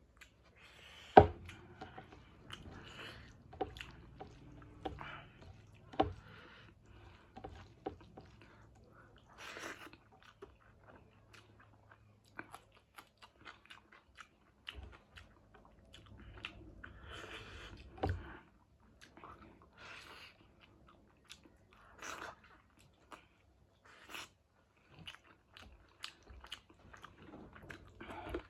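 Close-miked chewing and biting of chicken wings in curry with rice, wet chewing broken by crunches and short sharp clicks, the loudest a little over a second in and again near 18 seconds.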